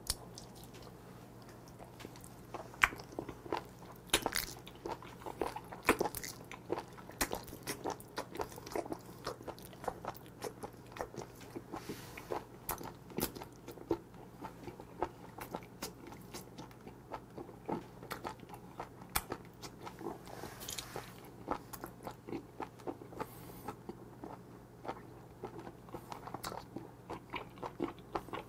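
Close-miked chewing of a whole raw live octopus (nakji) in the mouth: an irregular run of short mouth clicks, several a second, starting about two seconds in.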